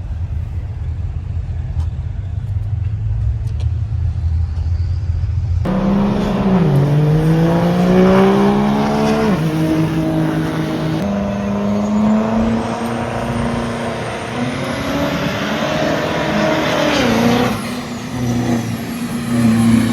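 Diesel truck engine: a low steady rumble at first, then about six seconds in the engine is revved hard, its pitch climbing and dropping several times.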